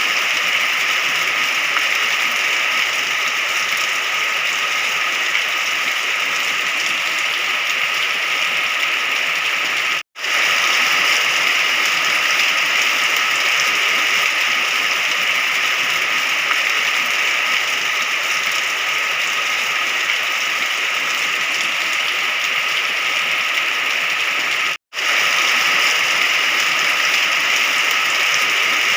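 Steady rain falling, an even hiss of drops with no thunder. It cuts out to silence for an instant twice, about ten seconds in and again about twenty-five seconds in.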